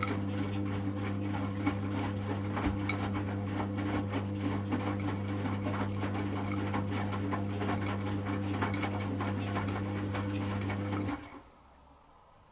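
Servis M3008B washing machine's drum motor turning the drum during the heating stage of a 40°C wash, a steady hum with clothes clicking and rattling inside the drum. The motor stops abruptly about eleven seconds in, leaving faint ticking.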